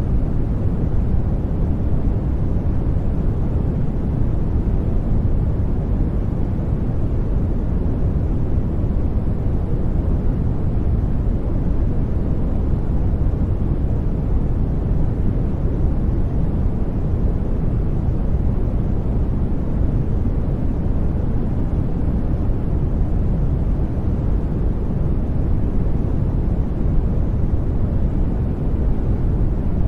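Steady generated white noise, deep and rumbling rather than hissy, at an unchanging level.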